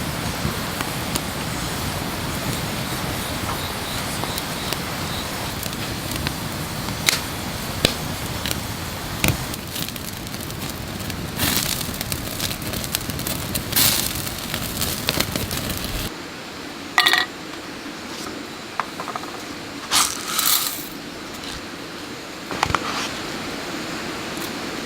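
Wood fire burning under roasting chicken, a steady hiss of flames broken by sharp crackles and snaps. About two-thirds of the way through, the low rumble drops away suddenly, leaving quieter crackling with a few louder pops.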